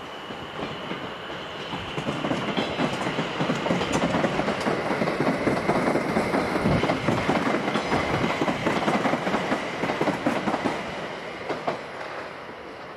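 Electric multiple-unit train running past: the rumble of steel wheels on rail with rapid clicks over joints, and a steady high whine. It builds over a couple of seconds and falls away near the end.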